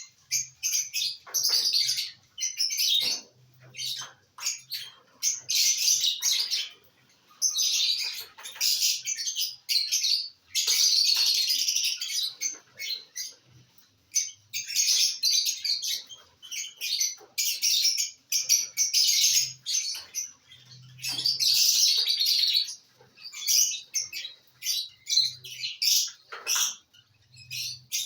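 Small pet parrots chattering in a string of shrill, high bursts, each a second or so long with short gaps between.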